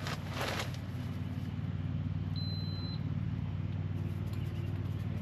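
A single short electronic beep about two and a half seconds in, the portable air conditioner's control panel responding as it is switched on, over a steady low machine hum.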